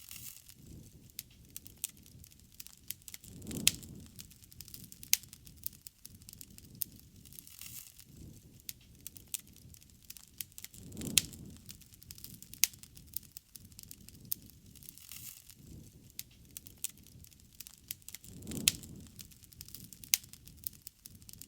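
Wood bonfire crackling, with many sharp snaps and pops. A low rushing sound swells up and fades three times, about seven seconds apart.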